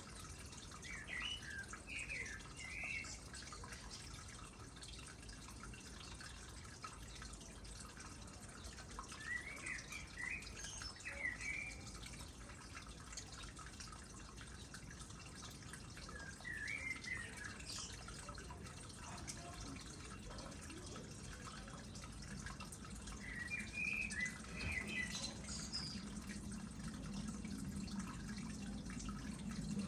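Water trickling and dripping into a small pond. A songbird sings short chirping phrases every several seconds, and a low hum rises in the last third.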